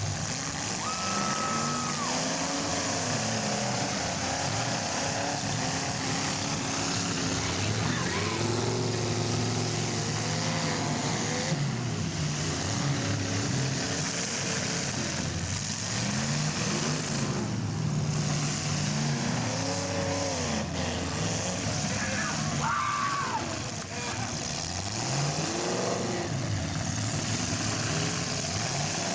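Engines of several full-size demolition derby cars revving up and down together, their pitches rising and falling over one another.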